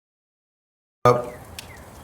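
Dead silence for about a second, then a drama clip's soundtrack cuts in abruptly: a short, louder sound followed by quieter background noise with a few faint gliding sounds and a click.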